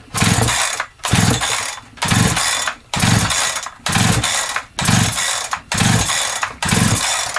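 Holzfforma G372XP chainsaw being pull-started on choke: eight quick pulls of the recoil starter, about one a second, each a whir of rope and the engine turning over. The engine never fires; it will not start.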